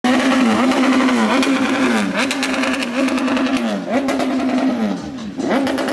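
Superbike engine revving over and over, its pitch sagging and then snapping back up about once a second.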